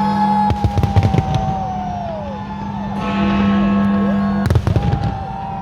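Fireworks going off: several whistling shells gliding up and down in pitch, with clusters of sharp bangs about half a second in and again near the end. Music with a steady low note plays underneath.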